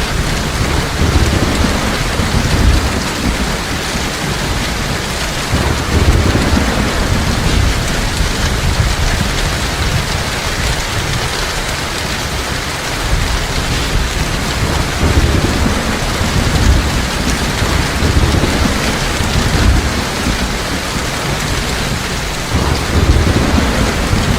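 Heavy rain falling steadily, with low rolling thunder rumbling in and out several times.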